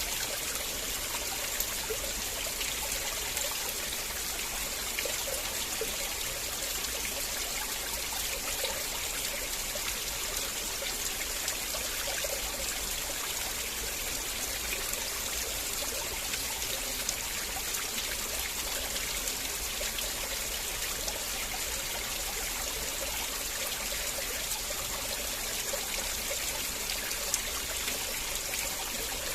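River water flowing and trickling steadily, an even rushing with small bubbling splashes.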